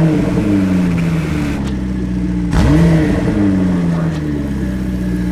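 Porsche 911 GT3 (991) flat-six running through an Akrapovič titanium Evolution exhaust, blipped so the revs flare up and fall back to idle, then blipped again about two and a half seconds in.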